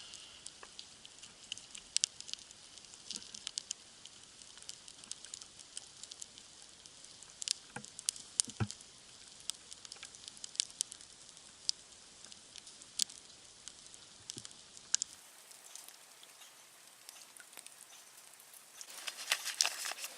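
Small wood campfire crackling, with faint, irregular sharp pops and snaps scattered over a quiet background.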